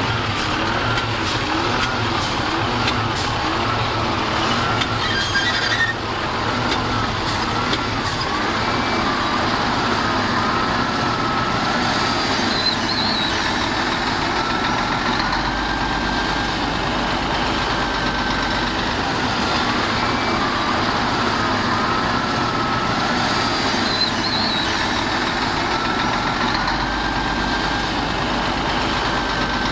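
Heavy diesel earth-moving machinery running steadily, with a wavering whine that rises and falls in pitch throughout.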